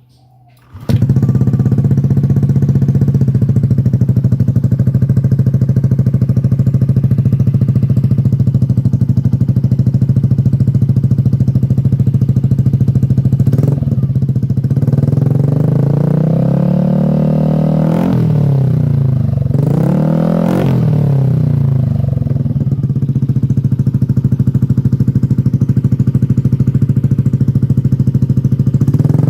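Motorcycle engine running through an AR Austin aftermarket exhaust (knalpot). It begins abruptly about a second in and idles steadily, is revved up and down several times around the middle, then settles back to idle before another rev near the end.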